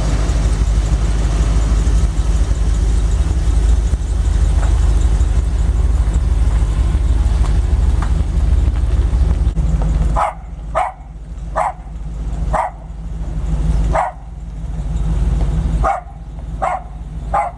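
A vehicle engine running steadily. From about ten seconds in, a dog barks about eight times in short sharp barks over the engine.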